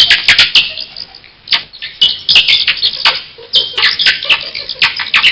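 Bat squeaking: a rapid, irregular series of short high-pitched chirps and clicks.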